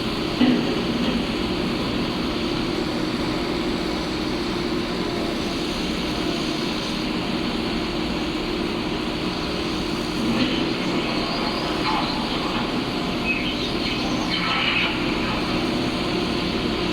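Heavy diesel construction machinery running steadily at a pile-drilling site, with a few brief knocks near the start, about ten seconds in and around fourteen to fifteen seconds.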